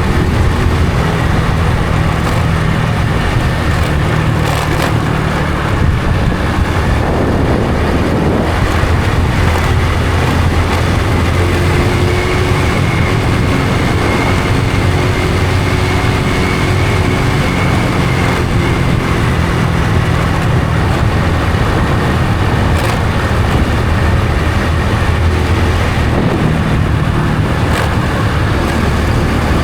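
Honda Supra X 125 FI's single-cylinder four-stroke engine running under way while riding, over a steady rush of noise. Its note shifts a few times with throttle changes.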